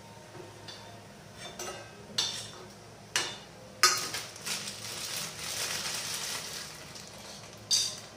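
Papads frying in hot oil in a kadai: several sudden sizzles, each fading quickly, with a longer stretch of sizzling in the second half.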